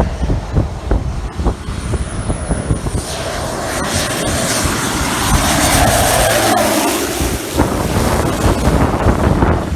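A small airplane passing close by: its engine sound swells from about three seconds in to a peak just past halfway, then fades. Gusts of wind buffet the microphone, mostly before the plane arrives.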